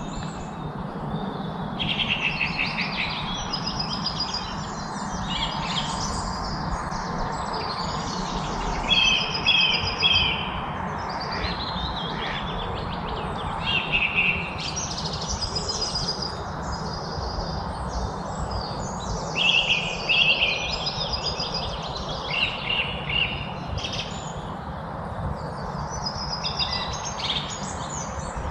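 Wild songbirds chirping and singing in short repeated phrases of quick, high notes, one phrase after another, over a steady background hiss.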